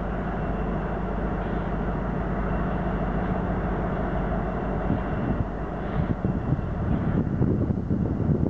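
CN stack freight train passing: a steady rumble of wheels on the rails with a low engine hum. Irregular clanking and clatter comes in over the last few seconds.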